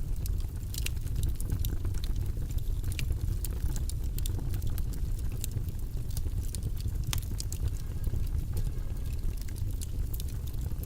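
Steady low, rumbling white-noise background, with many irregular sharp little clicks scattered through it.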